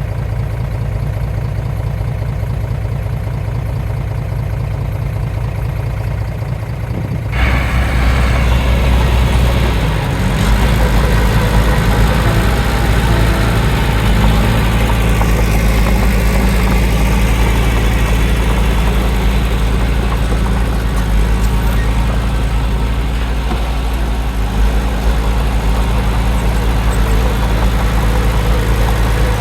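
Heavy diesel engine of an earthmoving machine running low and steady, then about seven seconds in it abruptly opens up and runs louder and harsher under load for the rest of the time.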